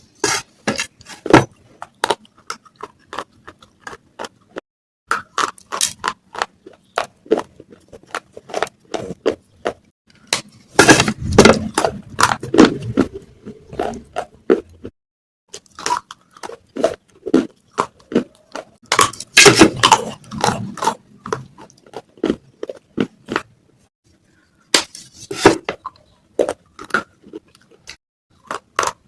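Pieces of baked clay pot (matka) crunching and cracking in a quick, irregular series of sharp snaps, with thicker bouts of grinding crunch twice and a couple of brief pauses.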